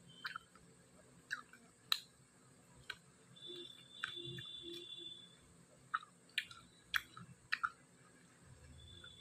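Close-miked eating sounds: chewing with sharp wet mouth clicks and lip smacks, scattered about once a second. A brief faint high tone sounds in the middle.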